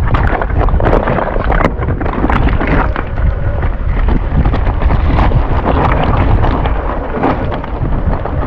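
Heavy wind buffeting on the microphone with a constant low rumble, broken by frequent sharp knocks and rattles, as a mountain bike rides over rough ground.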